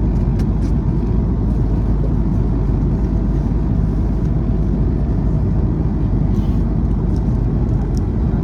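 Steady low rumble of vehicle running noise, as heard from inside a moving vehicle, with a few faint ticks.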